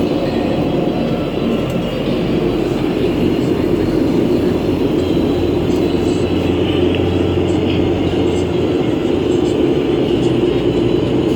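Steady running noise heard inside a 2011 New Flyer C40LF compressed-natural-gas transit bus under way: a constant low drone from the drivetrain and road, with a steady high whirring band, on a bus known for an unusual fan noise.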